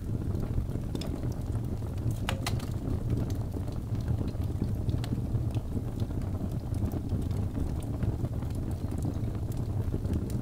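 Wood fire burning in a fireplace: a steady low rumble of flames with scattered small crackles, and one sharper pop about two and a half seconds in.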